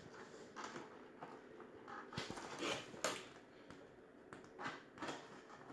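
Faint rustling and a few light clicks of toy-car packaging being handled, with two brief, louder rustles a little under three seconds in and at about three seconds.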